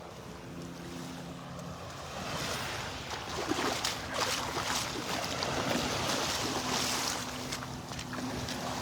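Gulf surf washing on the beach, with wind on the microphone, growing louder from about two seconds in. A faint steady low hum runs underneath.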